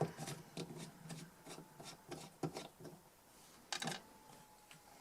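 Faint, irregular small clicks and scraping of a screwdriver working the screws of a metal DI box, with one sharper click nearly four seconds in.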